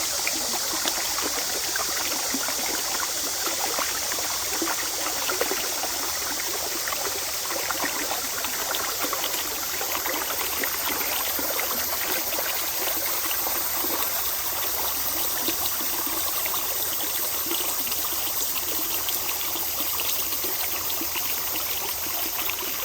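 Mountain valley stream flowing over rocks: a steady babbling rush of water full of small splashes and trickles.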